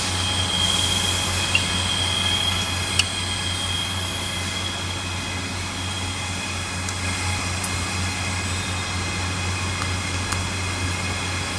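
Welding: a steady low buzz from the welder with a high whine over it and a few sharp clicks.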